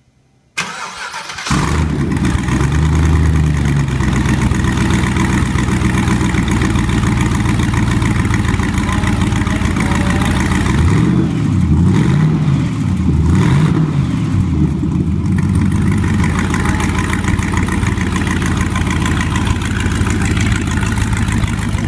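GM LS9 supercharged 6.2-litre V8 being cranked by its starter and catching on the first try, then settling to a steady idle. About halfway through it is revved three times in quick succession, each rev rising and falling back to idle.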